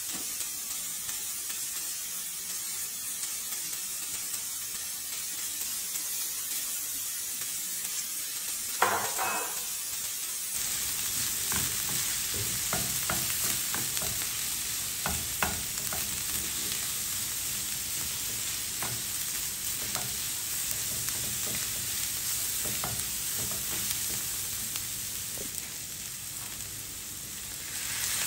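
Chopped onions sizzling in oil in a nonstick wok, with a brief clatter about nine seconds in. From about ten seconds on, a spatula scrapes and knocks against the pan as the onions are stirred with the added spices.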